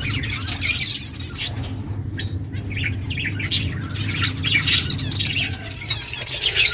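A flock of small finches chirping, with many short, quick calls overlapping throughout over a steady low hum.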